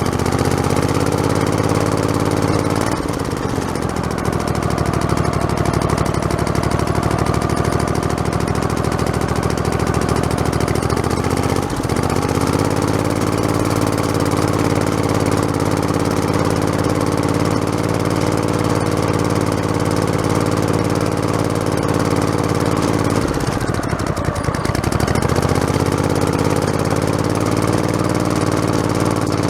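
Modified lawn tractor's engine running as it drives along, its speed dipping and picking up again three times: about three seconds in, just before twelve seconds, and around twenty-four seconds.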